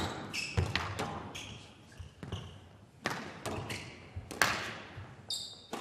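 A squash rally in play: the ball smacks off rackets and the court walls at irregular intervals, with short high squeaks from the players' shoes on the court floor.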